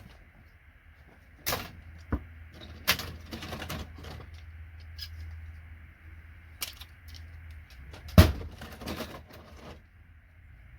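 Hard knocks and short scraping clatters of scrap circuit boards being handled and worked on a bench, a dozen or so separate hits with one loud knock about eight seconds in.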